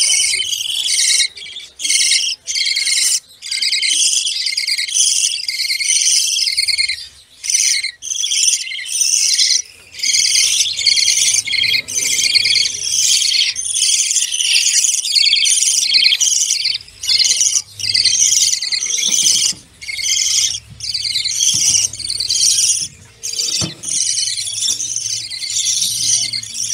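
Many caged small birds chirping and chattering at once in a dense, high-pitched chorus, with a few brief lulls. A faint low hum runs underneath in the second half.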